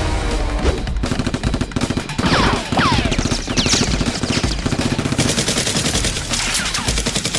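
Rapid automatic gunfire in fast continuous bursts, with a few falling whistling sweeps in the middle.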